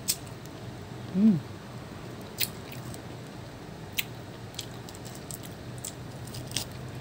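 Someone chewing juicy pomelo pulp, with a handful of sharp wet mouth clicks spread through and a brief hummed "mm" falling in pitch about a second in.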